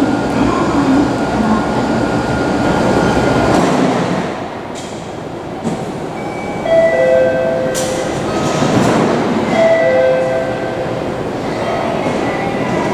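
Hokuriku Shinkansen train at the station platform: a steady rumble and hiss with a thin whine that drops away about four seconds in. Later, short tones sound over the continuing noise, a higher note then a lower one, twice.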